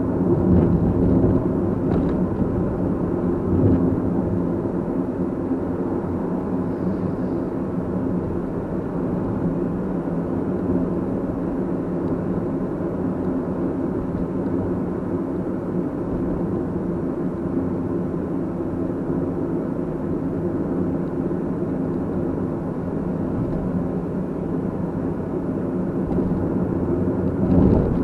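Steady running noise of a car being driven: a low rumble of engine and road with a constant hum, a few faint knocks, and a brief louder swell near the end.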